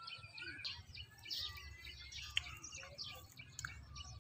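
Birds chirping and calling in quick, overlapping short notes, over a low steady rumble.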